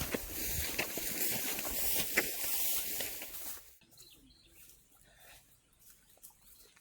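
Dry rustling and crackling of rice stalks being handled, with scattered clicks. It cuts off abruptly about three and a half seconds in, leaving a quiet outdoor background with faint bird chirps.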